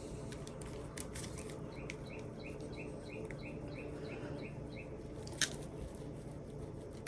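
A bird chirping a quick run of about a dozen short notes, about four a second. A single sharp tap comes about five seconds in.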